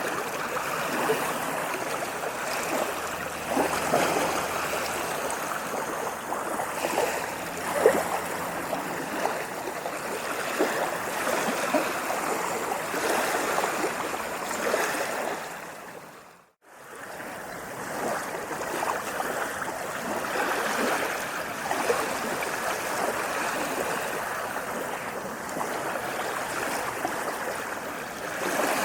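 Sea waves washing and splashing continuously, with many small bright splashes. A little past halfway the sound fades out to a moment of silence and fades back in.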